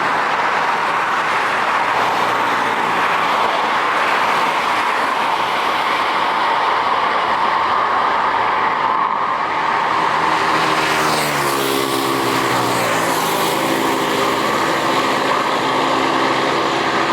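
Jet airliner engines during takeoff, a loud steady roar, with a cluster of engine tones rising in pitch about two-thirds of the way through.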